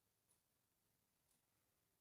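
Near silence, with very faint short ticks about once a second.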